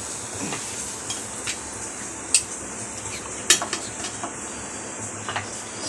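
A metal utensil clinking and scraping against a cooking pot of chicken curry, with two sharper knocks about two and a half and three and a half seconds in, over a steady hiss.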